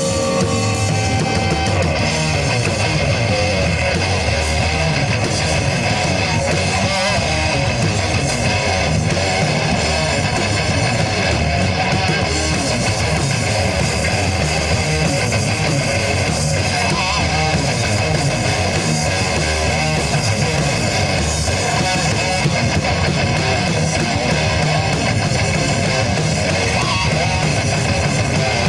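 Rock band playing live: distorted electric guitars over bass and drums in a loud, steady instrumental passage with no vocals.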